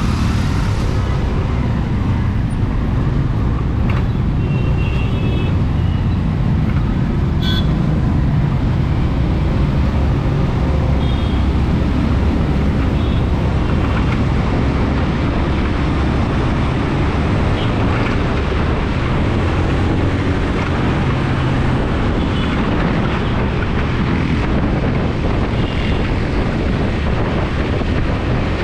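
Steady low rumble of a scooter riding through city traffic, with a few short high-pitched tones now and then.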